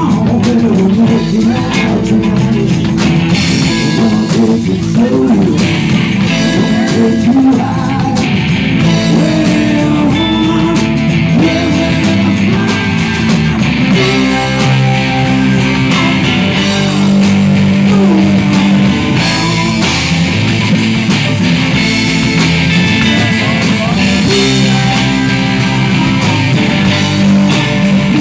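Live rock band playing with electric guitar, bass and drums, with some singing.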